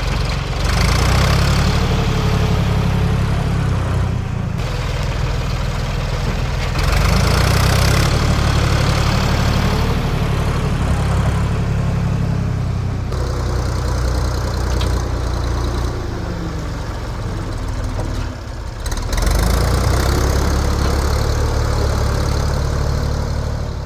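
A 1973 Ford 4500 industrial diesel backhoe's engine running under working load, its level rising and falling several times. The sound breaks off abruptly twice.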